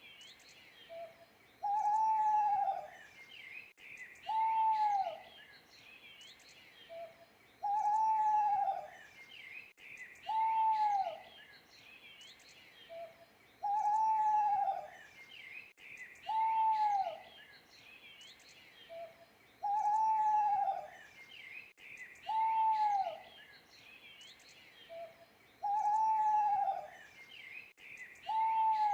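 Owl hooting: a single arching, falling hoot about every three seconds, with a short soft note before every other hoot. Faint chirping of other birds underneath.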